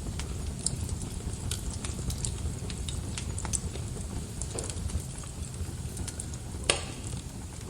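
Wood fire burning in a fireplace: a steady low rumble of flames with scattered small crackles, and one sharper pop near the end.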